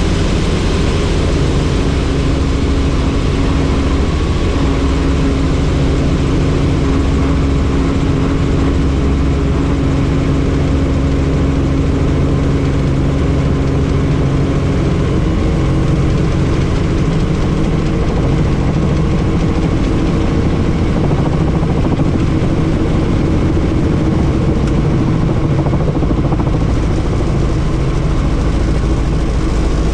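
Helicopter in steady flight: continuous rotor and engine noise with wind rush, heard from the cabin with the doors off.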